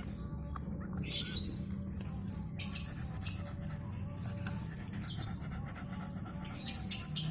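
Newborn puppies squeaking in short, high-pitched bursts, several times over a few seconds, with a steady low hum underneath.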